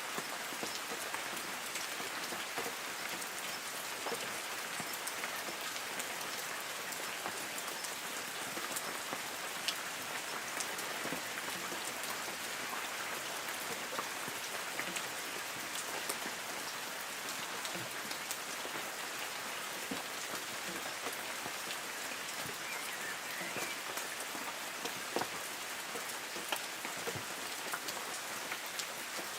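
Light rain falling steadily on forest trees: an even patter of drops on leaves, with scattered louder single drips.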